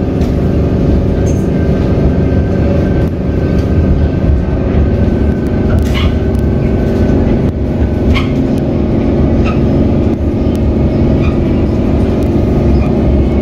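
Comeng electric suburban train running, heard from inside the carriage: a steady rumble with a held hum, and a few sharp clicks in the second half.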